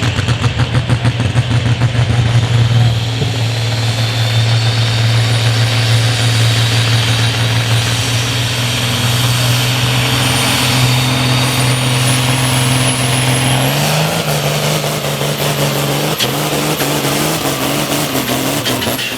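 Hot farm class pulling tractor's engine running hard at a steady, loud pitch under full load while pulling the sled, with a faint high whine slowly rising over it. About fourteen seconds in, the engine pitch jumps up and surges in steps before the sound falls away at the end.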